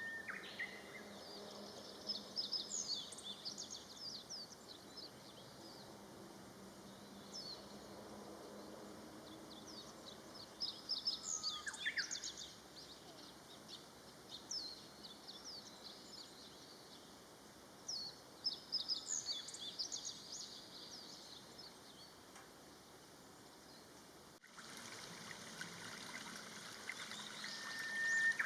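Small songbirds chirping in short bursts of high notes several times over a steady outdoor hiss; near the end the sound cuts to a louder steady rush of running water.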